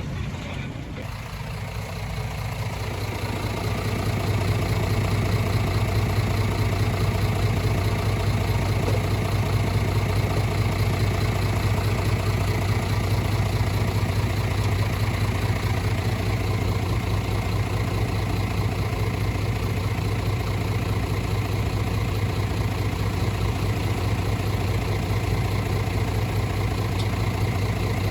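Heavy diesel engine of earthmoving machinery running steadily, a deep continuous hum that builds over the first few seconds and then holds level.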